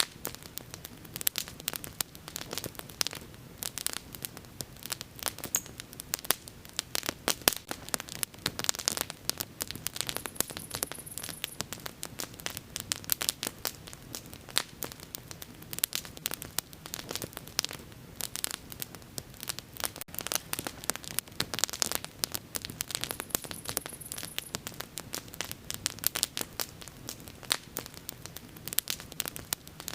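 Wood bonfire crackling, with dense, irregular pops and snaps over a low steady burning hiss.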